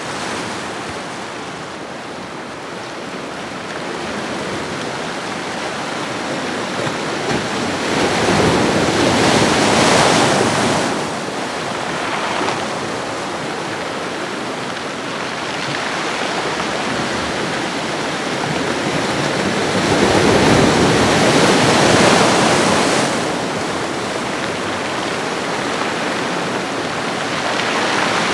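Ocean waves washing onto a shoreline: a steady hiss of surf, with two larger waves building and breaking, about a third of the way in and again about two thirds of the way in.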